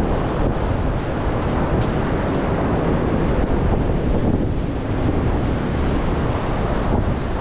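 Wind buffeting the action camera's microphone with a heavy, flickering rumble, over the steady rush of Gulf surf breaking.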